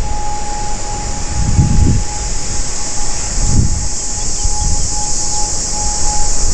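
ATR 72-600 turboprop airliner's engines running, a steady whine with hiss, while wind buffets the microphone in low gusts.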